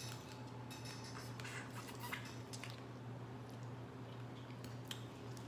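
Small, irregular cracks, clicks and wet squishes of boiled shellfish shells being broken and peeled by hand, over a steady low hum.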